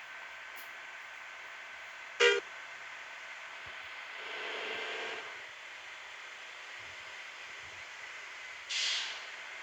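A short, loud horn toot about two seconds in, a softer, longer tone swelling and fading around four to five seconds, and a brief hissing burst near the end, all over a steady hiss.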